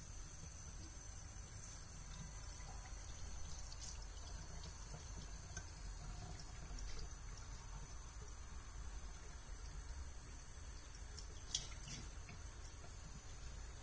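Faint, steady trickle of running tap water, with a few small sharp ticks, the loudest about three quarters of the way through.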